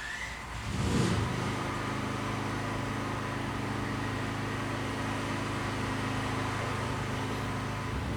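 A motor starts up, with a rise in the first second, then runs steadily with a low hum and a hiss above it.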